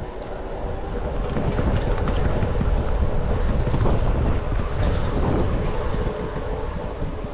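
Wind buffeting the microphone and tyre rumble from a bike riding along a road, a steady low rush that grows louder about a second in.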